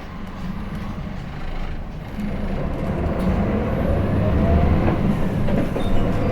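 Hino Blue Ribbon City (KL-HU2PMEA) city bus's diesel engine pulling away from a stop and accelerating, heard from inside the cabin. The engine grows louder from about two seconds in, with a faint rising whine over the low engine note.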